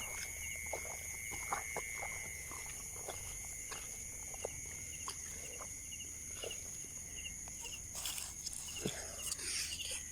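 Insects calling steadily in a high, even drone, one call stopping about two and a half seconds in, with a short chirp repeating a little more than once a second. Scattered light clicks and, near the end, a burst of rustling, like footsteps or handling in vegetation.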